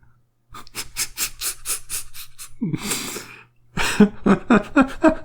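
A person laughing: breathy rhythmic huffs, then from about four seconds in a louder voiced laugh in quick, even pulses.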